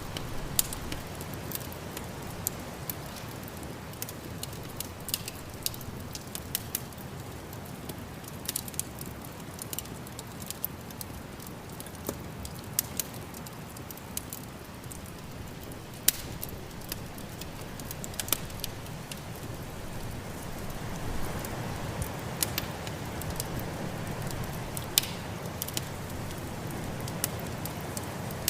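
Wood fire crackling in a fireplace, with frequent irregular sharp pops, over a steady low rumble of snowstorm wind that swells a little about three quarters of the way through.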